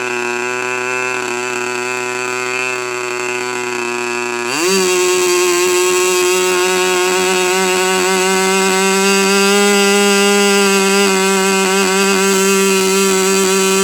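K&B .40 R/C two-stroke model glow engine running with its propeller. About four and a half seconds in, the revs rise quickly to a higher, louder steady speed and hold there.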